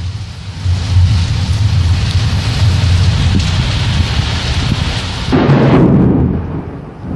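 Thunder rumbling low and steadily over a hiss of rain, with a sudden louder, deeper surge of rumble about five seconds in that dies away near the end.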